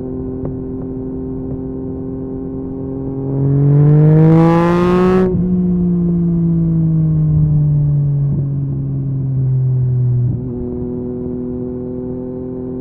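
Yamaha MT-09 three-cylinder engine through an Akrapovic carbon exhaust, holding a steady note. About three and a half seconds in it revs up hard, the note rising and getting louder for under two seconds. The note then sinks slowly for about five seconds before dropping abruptly back to a quieter steady note.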